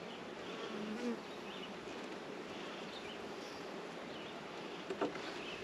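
Honeybees buzzing steadily around an open hive, with one bee's hum sliding past about a second in and a few light knocks near the end.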